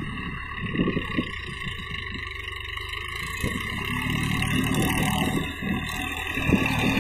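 Massey Ferguson 7250 tractor's diesel engine running steadily, a little louder from about four seconds in.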